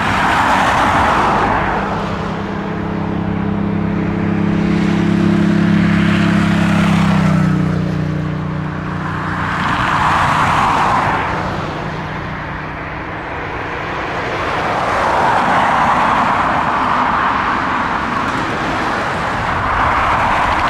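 Jet engines of a Boeing 757 airliner passing, a loud rush that swells and fades, with a low engine tone that drops in pitch about seven seconds in as it goes by.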